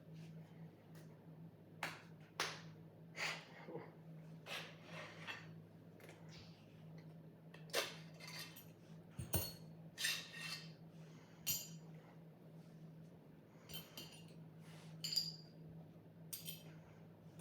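About a dozen short, irregular scrapes and clinks of a sword blade, some ringing briefly, over a steady low hum.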